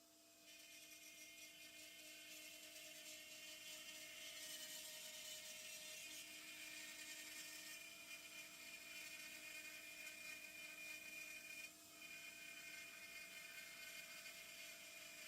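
CNC router spindle and axis motors running, a high-pitched whine over a steady two-tone hum, with a brief drop about twelve seconds in.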